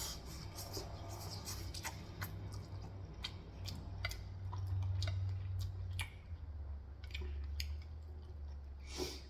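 Close-miked chewing of Korean fried chicken, with irregular small crunches and clicks.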